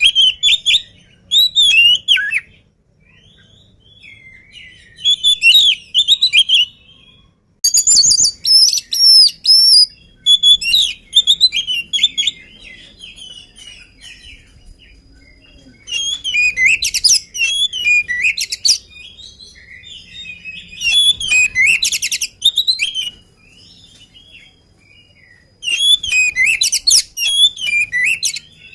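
Oriental magpie-robin (kacer) singing: loud phrases of rapid, varied whistled notes, each lasting one to three seconds, with pauses of a few seconds between them.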